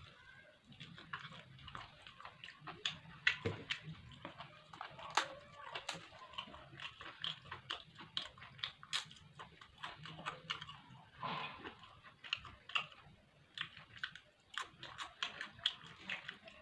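Close-miked chewing and mouth smacking of a person eating, a dense run of short wet clicks.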